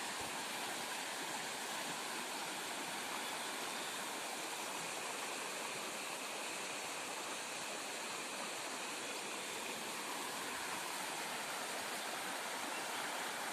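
Flowing water: a steady, even rushing noise with no breaks.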